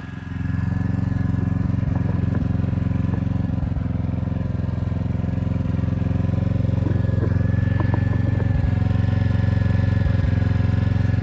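A steady low engine hum with a thin, high, steady whine above it, running evenly without change.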